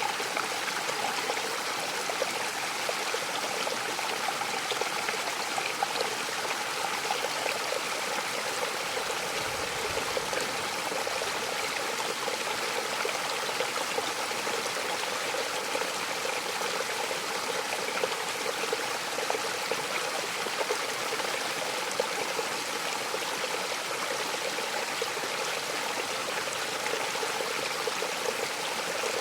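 A waterfall's steady rushing and splashing, with no change in level.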